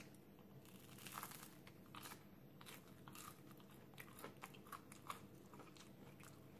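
Faint crunching of a thin, crispy battered fried horn plantain (pisang goreng tanduk) being bitten and chewed: irregular crisp crackles spread through the whole stretch.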